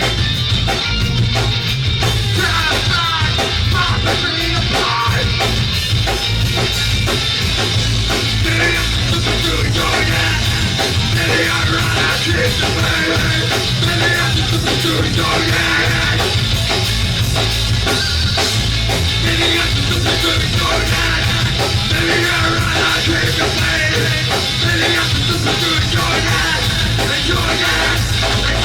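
A rock band playing live and loud, with drum kit, distorted electric guitar and bass and a singer's voice, heard through an audience camera's microphone with the low end heavy and dense.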